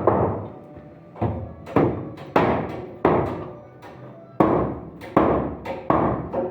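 Hammer blows, about nine in all, each with a short ringing decay. They come in runs of two to four strokes roughly half a second apart, with brief pauses between the runs.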